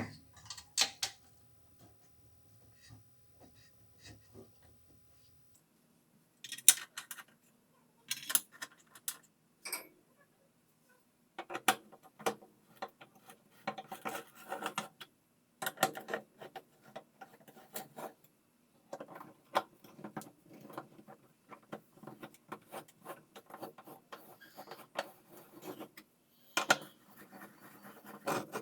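Metal parts and hand tools clinking, tapping and rattling in irregular bursts, sparse at first and then busy and nearly continuous in the second half, as a washing machine's bearing and mechanism assembly is worked on.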